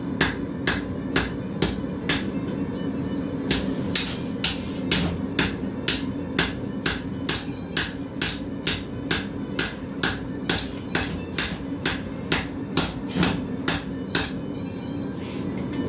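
Blacksmith's hand hammer striking hot steel on an anvil while forging, in steady ringing blows about two to three a second. The blows pause briefly near the start and near the end, over a steady low hum.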